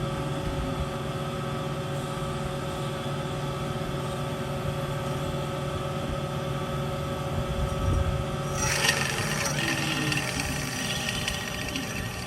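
MEGA BS-360SA horizontal band saw running and sawing through the workpiece with a steady hum and whine. About nine seconds in the sound changes with a short rasping burst and turns brighter and hissier.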